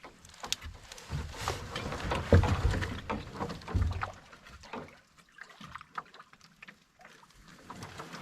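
Canoe being handled on the water: splashes and irregular hollow knocks against the hull, with a few heavy thumps in the first few seconds, then quieter scattered knocks.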